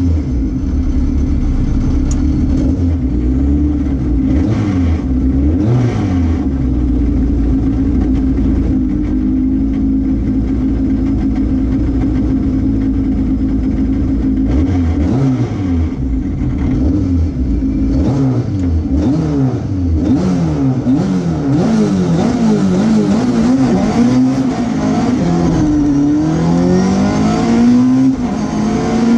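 Mk2 Ford Escort rally car's engine running hard on a tarmac stage, heard from inside the cabin. The engine pitch holds fairly steady for the first half, then rises and falls over and over as the driver works the pedals.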